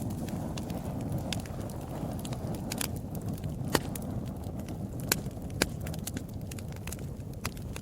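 Wood fire burning: a steady low rush of flame with sharp crackles and pops scattered through, the loudest pop a little under four seconds in.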